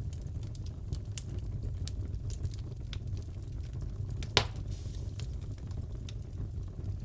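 Wood fire crackling in a fireplace: a steady low rumble with scattered small crackles and one louder pop about four and a half seconds in.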